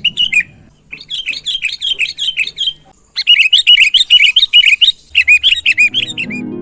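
Sooty-headed bulbul (kutilang) singing loudly: quick runs of repeated chirping notes in four bursts separated by short pauses.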